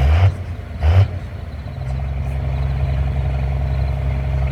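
A pulling vehicle's engine is blipped twice in quick succession. It then settles into steady running about two seconds in.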